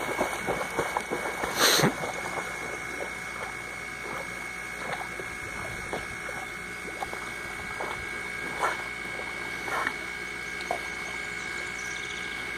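Water splashing and sloshing as a dog paddles and swims, busiest with a sharp splash in the first two seconds, then thinning to occasional soft splashes. A steady high-pitched tone runs underneath.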